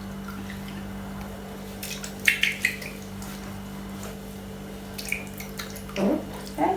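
Water splashing and trickling in a bowl in a few short bursts, about two seconds in and again near five seconds.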